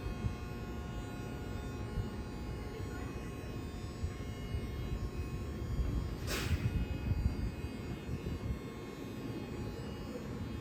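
Electric commuter train running, a steady low rumble with a faint electrical hum, and a short hiss about six seconds in.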